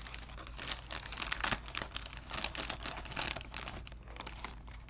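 Plastic packaging crinkling and crackling as it is handled, with many small, irregular crackles.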